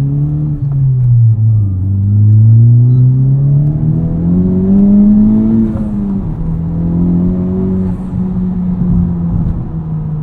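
2021 Honda Civic Type R's turbocharged 2.0-litre four-cylinder, breathing through an aftermarket Invidia exhaust and Takeda intake, heard from inside the cabin as it accelerates through the gears. Revs dip about a second in, climb for several seconds, drop at an upshift about six seconds in, then hold steady at cruise.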